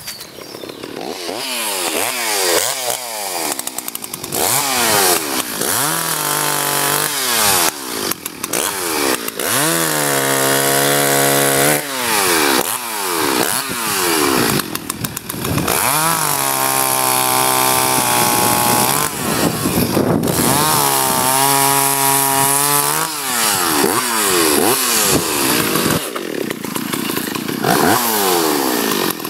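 Chainsaw engine revving up and down again and again, and held at high revs for a few seconds at a time while it cuts up a fallen tree limb.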